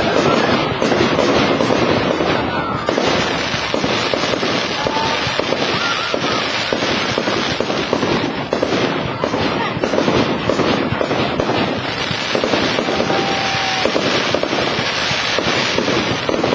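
Aerial fireworks going off in a dense, continuous barrage of bangs and crackles, with a few short whistles among them.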